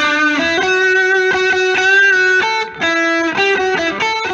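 Intro music: an electric guitar playing a riff of quick, changing single notes, with a brief break near the middle.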